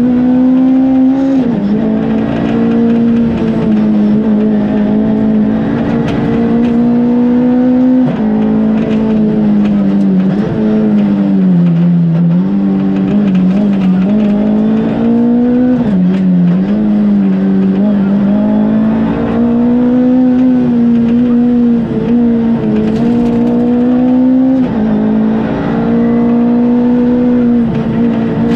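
Ford Fiesta R2 rally car's 1.6-litre four-cylinder engine at high revs, heard from inside the cabin, its pitch dropping and climbing again several times through lifts and gear changes.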